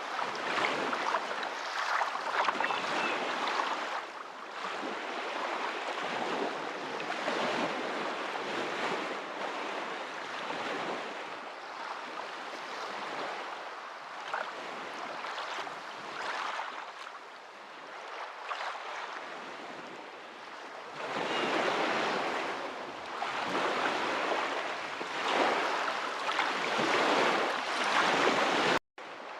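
Ocean waves washing in and receding, the rushing rising and falling in swells every few seconds. The sound cuts out suddenly for a moment near the end.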